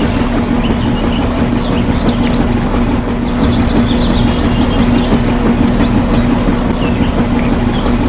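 A steady low mechanical hum over a constant rumbling noise, with birds chirping repeatedly above it.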